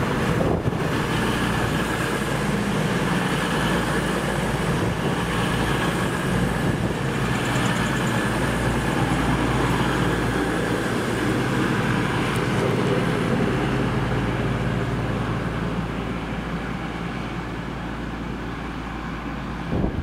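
Diesel train running through the station, a steady engine note with rail and wheel noise, easing slightly near the end.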